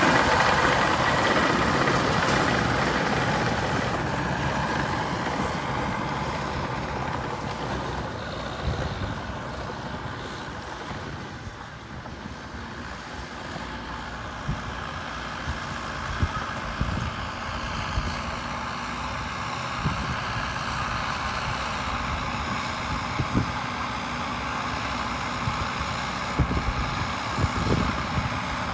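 Diesel engine of a Caterpillar D6R2 bulldozer at work, loudest at first and easing to a steady run, with scattered knocks from about halfway on.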